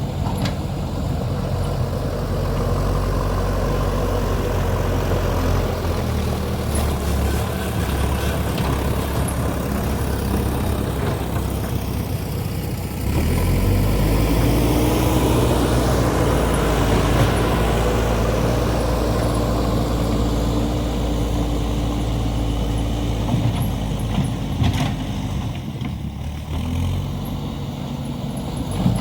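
Heavy construction machine's diesel engine running, revving up sharply about halfway through and holding higher as it works under load, then dropping back near the end. One sharp clank is heard shortly before the end.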